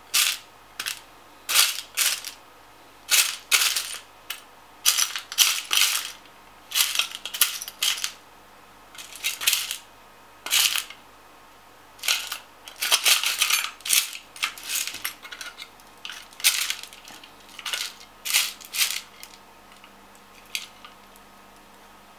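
Small metal screws clinking and rattling against one another as a hand rummages through a container of loose screws, in irregular bursts that stop near the end.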